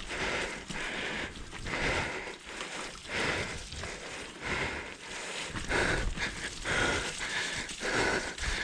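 A rider's heavy, rhythmic breathing close to the microphone, about one to two breaths a second: hard panting from the effort of pedalling a mountain bike up steep climbs.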